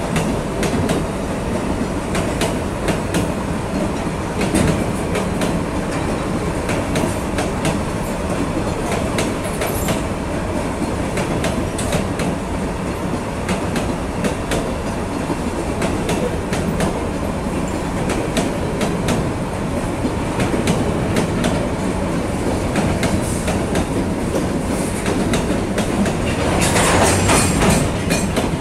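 Freight train of open-top steel gondola wagons rolling past close by: a steady rumble with wheels clicking over the rail joints. A brief louder, harsher rush of noise comes near the end.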